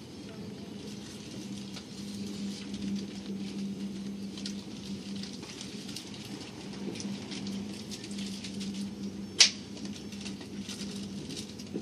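Cabin noise of a moving electric train: a steady hum under a continuous light pattering of small clicks and rattles, with one sharp click about nine seconds in.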